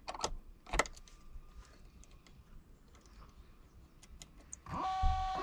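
Scattered clicks, one louder a little under a second in, then near the end the hot and cold water servo motors of an Aqualisa digital shower processor start up with a steady whine as the unit is powered back on.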